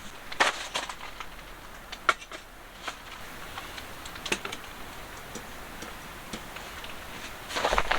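Irregular light clicks and knocks, a few sharper than the rest, with a denser patch of clattering near the end.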